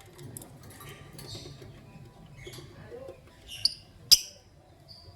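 Lovebirds chirping and chattering in short, high-pitched squeaky calls, with two loud sharp chirps about three and a half and four seconds in.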